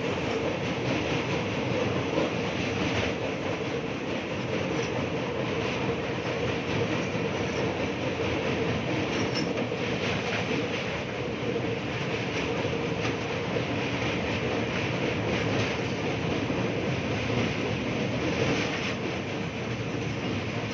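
Steady running noise of a vehicle in motion, even and unbroken, with a constant hum underneath.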